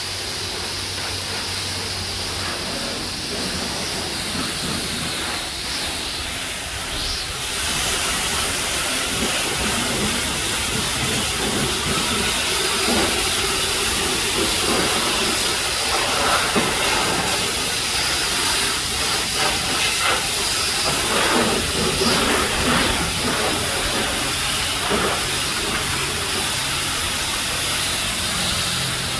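High-pressure spray wand of a self-serve coin-op car wash spraying water onto a car, a steady hiss. It grows louder and brighter about seven seconds in.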